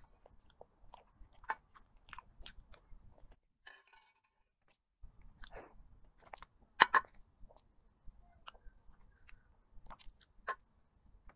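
Close-up chewing and mouth sounds of someone eating soft cream cake, with scattered small clicks of a metal fork against the plate. The sound drops out for about a second and a half around the middle, and a pair of louder clicks comes near seven seconds in.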